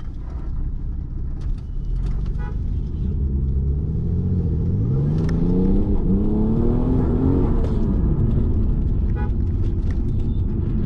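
Car engine and road rumble heard from inside the cabin while driving; about halfway through, the engine note rises as the car accelerates, then drops back.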